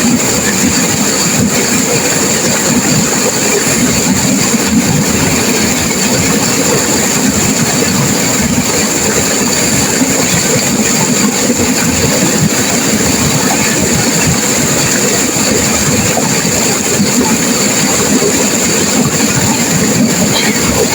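Turbulent river water crashing and rushing, a loud, steady sound with no let-up.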